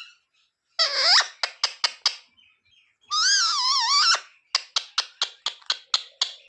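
Pet parrot calling: a short harsh call followed by a few quick clicks, then a wavering, warbling call about a second long, and a rapid run of about eight clicking chirps, roughly five a second.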